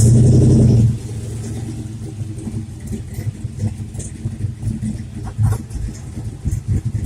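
Car engine revving loudly for about a second at the start, then dropping to a lower, uneven running sound.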